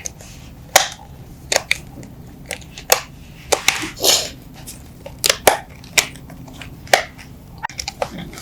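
Irregular sharp clicks and knocks, about a dozen, from hand work on the parts of a children's electric ride-on car.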